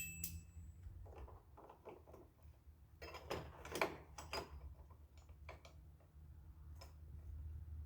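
Faint, irregular metal clicks and clinks of a wrench turning a 3/4-inch bolt on a lawn tractor's steering assembly mount, the bolt coming off loose. There is a low steady hum underneath.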